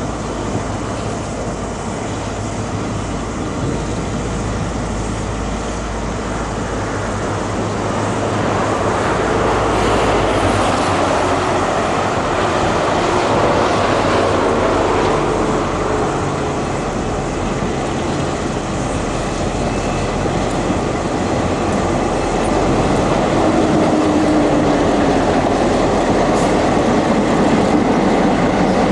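Freight train running past: a steady low engine drone, then the continuous rumble of wagons on the rails, growing louder about eight seconds in, with faint wheel squeal.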